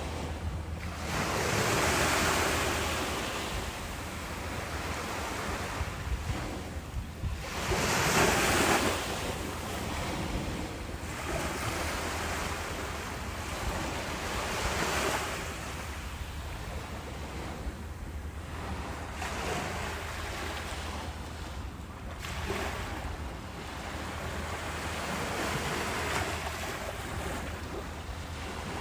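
Ocean waves surging and washing in, two larger swells about 2 and 8 seconds in, then a run of smaller, softer waves every few seconds.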